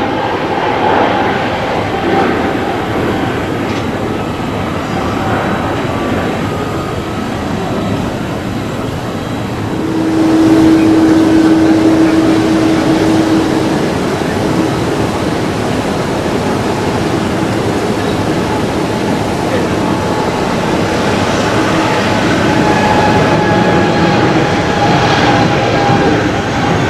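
Jet airliner engines at close range, a loud steady rush. About ten seconds in it grows louder, with a steady hum for a few seconds, as the sound changes from an Airbus A321neo to a Boeing 777-300ER's larger GE90 engines.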